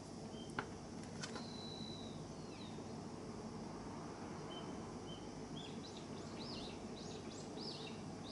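Small birds chirping over steady background noise: one long whistled note that falls away, then a run of quick arched chirps near the end. A single sharp click about half a second in is the loudest sound.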